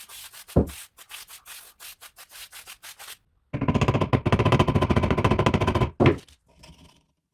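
Sanding or scrubbing strokes on a part of an antique Singer sewing machine, quick and even, with a knock about half a second in. From about three and a half seconds to six seconds the rubbing turns louder and faster with a steady tone in it, then stops with another knock.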